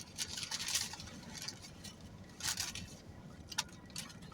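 Close-up eating sounds of a sandwich being chewed, in irregular soft crackly bursts with a small click near the end.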